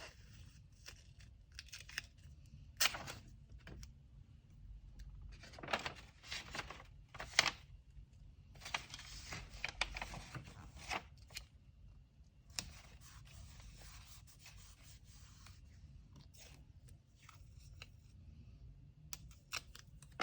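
Kraft paper and tape being handled while a parcel is packed by hand: short tearing and scraping strokes, with a few longer stretches of paper rustling.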